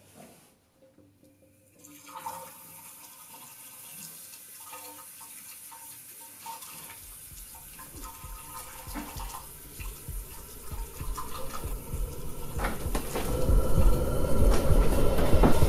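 Water running into a washbasin in a small tiled restroom, starting about two seconds in and growing steadily louder, with a low rumble building beneath it over the second half.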